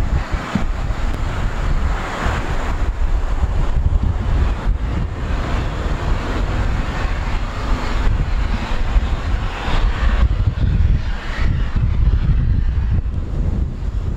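General Electric CF6 turbofan engines of a Boeing 767-300 running, with a faint steady high whine, heavily mixed with wind buffeting the microphone.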